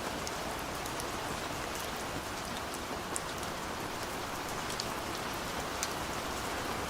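Steady rain falling, with individual drops ticking sharply now and then over the even hiss.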